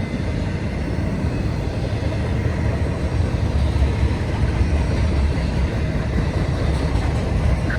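Intermodal freight train rolling past with a steady, loud rumble of wheels on the rails.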